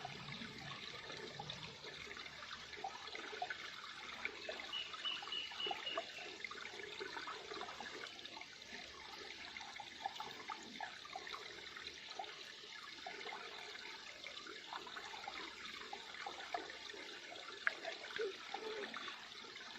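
Small river's water running and trickling steadily, with a continuous patter of small splashes.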